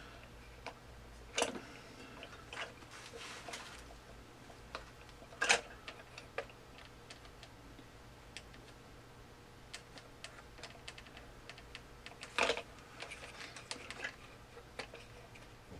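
Small plastic parts of a Lemax Eerie Go Round's mechanism clicking and knocking as they are handled and fitted back into place: scattered light clicks with three louder knocks, about a second and a half in, near the middle, and a few seconds before the end.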